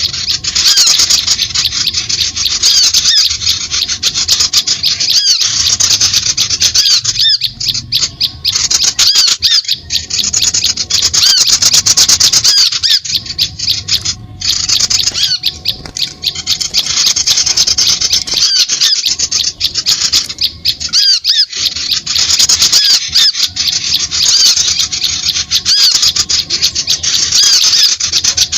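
Loud, dense chattering of small birds, rapid chirps and squawks overlapping with only brief breaks: a bird-lure recording meant to draw in other birds.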